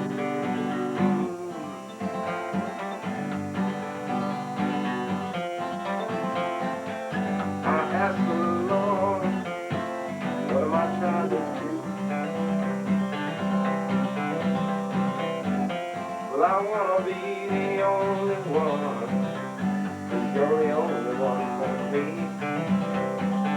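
Acoustic guitar played solo, continuing a self-written song, with a man's voice coming in with sliding sung notes a few times.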